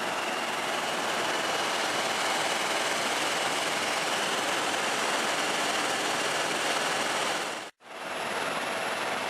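Steady noise of a helicopter in flight. About three quarters of the way through it cuts out for a moment, then resumes.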